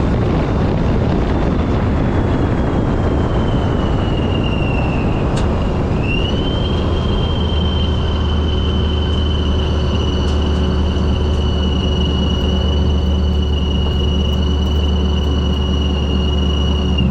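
Procharger centrifugal supercharger whining over a 2004 Mustang Mach 1's 4.6-litre DOHC V8 while driving. The whine's pitch slides slowly down, dips about six seconds in, then rises and holds steady with the engine speed.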